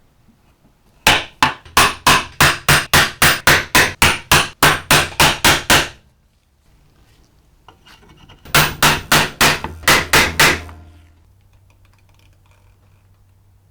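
Steady hammer blows, about four a second, in a long run of some seventeen strikes, then after a short pause a second run of about nine.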